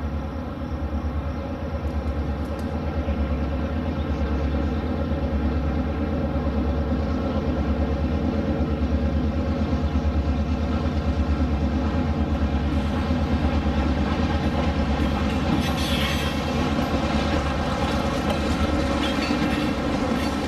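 Diesel passenger train running: a steady engine drone with wheel and rail clatter. About 16 seconds in, a burst of brighter, hissing noise rises over it.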